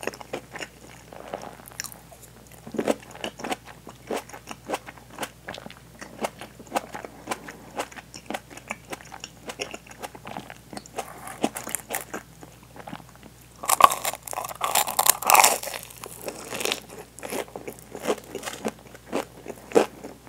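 Close-miked eating sounds: chewing with sharp mouth clicks, starting on a cherry tomato. About two-thirds of the way through comes a louder stretch of crunching, a bite into the crisp breaded crust of a deep-fried hanpen fish cake filled with cheese.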